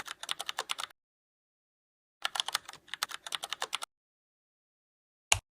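Typing on a computer keyboard: two quick runs of key clicks with a pause between, then a single knock near the end.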